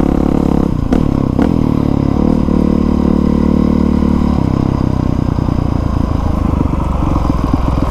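2020 Honda CRF450R's single-cylinder four-stroke engine running while ridden, its pitch dropping and climbing again about a second in, then steady, with a change in tone a little past halfway.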